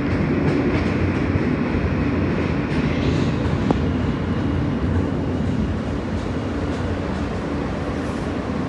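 Subway train's steady rumble and hum.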